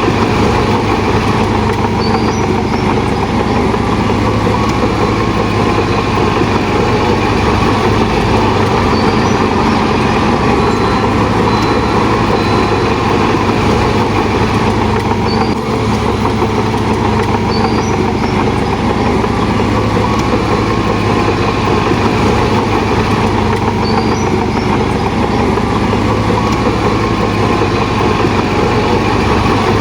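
Heavy diesel construction machinery running steadily with a constant engine sound.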